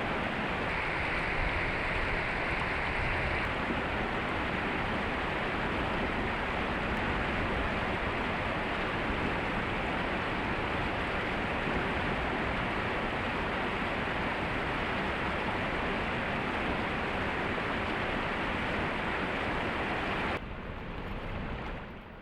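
Steady rush of a waterfall's falling water. Near the end it cuts suddenly to a quieter, duller rush.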